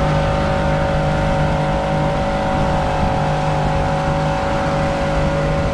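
Outboard motor of a MacGregor 26X running steadily at cruising speed, a constant drone with a few held tones over a rush of noise.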